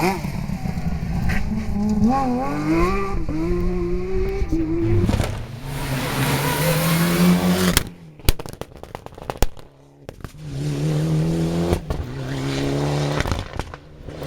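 Rally car engine revving hard, its pitch climbing and dropping with each gear change, for about eight seconds before cutting away sharply with a few clicks. After a short lull a second engine note comes in, holding fairly steady before fading near the end.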